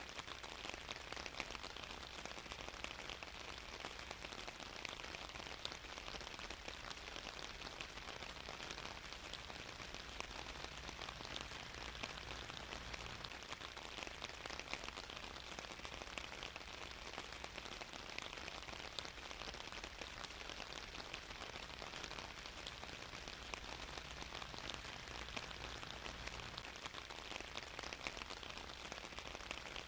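Steady rain falling, an even hiss with the fine patter of many drops on a surface, unchanging throughout.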